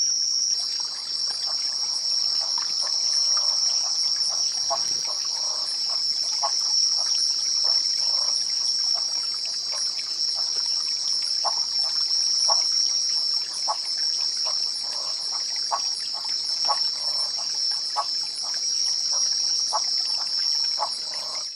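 Steady chorus of night insects such as crickets, a continuous high-pitched trill, with scattered soft clicks and ticks underneath.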